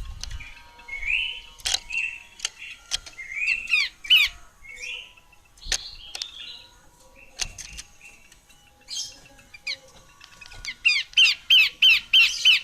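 Female pelanduk semak, a Malacocincla babbler, calling: short chirping notes at irregular intervals, then a fast run of loud, sharp repeated notes near the end. A few sharp clicks fall in between.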